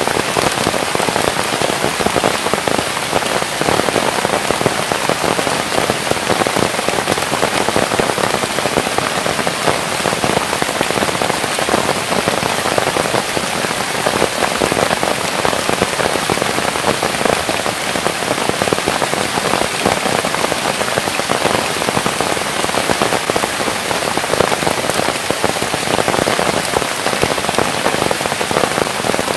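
Steady, heavy rain: an even, dense hiss of many drops that does not change.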